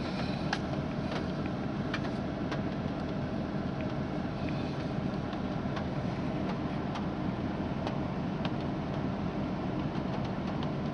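Steady rumble of a running vehicle heard from inside the cab, with an even hiss and a few faint scattered ticks from the rain.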